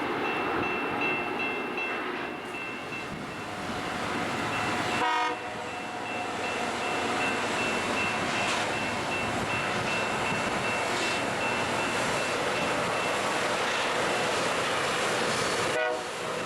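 LORAM rail grinder grinding the railheads as it runs: a steady harsh rush of grinding stones on rail with a thin high whine on top. About five seconds in and again near the end, a short tonal blast like a horn breaks in and the sound changes abruptly.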